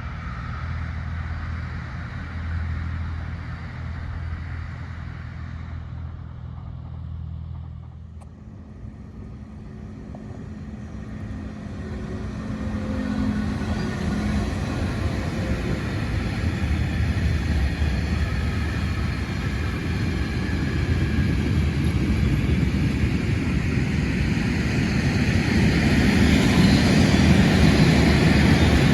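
A steady low engine hum fades away over the first several seconds. Then a rumble builds steadily and is loudest near the end as a train approaches.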